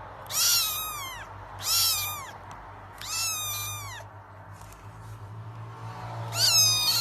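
A cat meowing four times in high, drawn-out calls, each dropping in pitch at the end, with a longer pause before the last.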